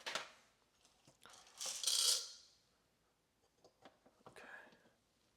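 Whole coffee beans handled in a small container: a sharp click, then a short rattle of beans being poured about two seconds in, followed by a few light taps and clicks.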